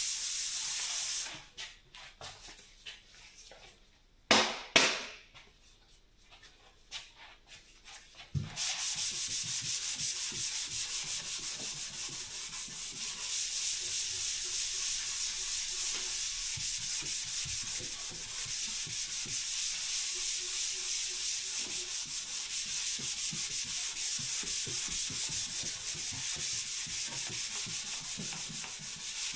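Sandpaper rubbing steadily over a dent repair. The sanding stops for about seven seconds near the start, with a few light knocks and two loud thumps in the pause, then resumes and carries on.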